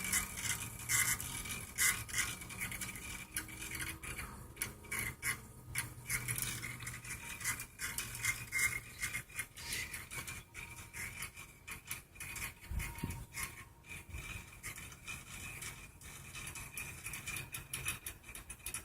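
Trane XE1100 heat pump running in cooling mode: a low hum under an irregular, scratchy hiss from the unit. The owner can't place the hissing. He connects it to the bypass around the outdoor TXV, and others have blamed a capillary tube.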